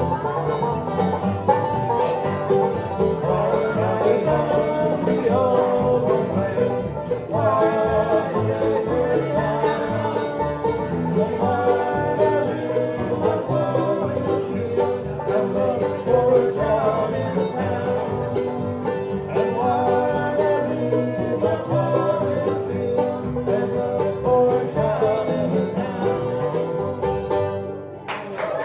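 Bluegrass band playing live without vocals, with banjo to the fore over guitar. The tune stops right at the end.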